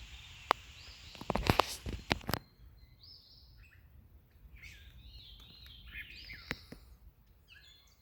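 A few sharp knocks in the first couple of seconds, then several unidentified birds calling with short, overlapping high notes, many rising and falling quickly.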